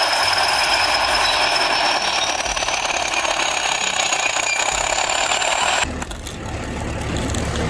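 Heavy machine running: a loud hiss with a high whine that slowly rises in pitch. It cuts off suddenly about six seconds in, and a lower engine rumble follows.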